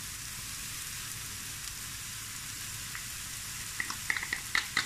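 Diced zucchini and onion sizzling as they fry in oil in a pan, a steady hiss. Near the end there are a few quick light clicks and squeaks.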